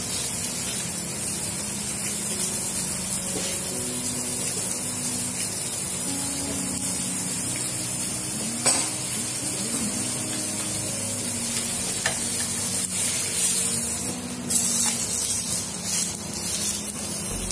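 Chicken breast sizzling in a hot grill pan, a steady frying hiss.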